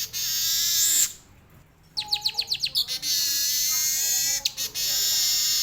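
Weaver bird (manyar) singing a long, buzzy, warbling song that mixes in canary-like phrases. There is a brief pause about a second in, then a run of quick repeated notes, then the steady warble resumes.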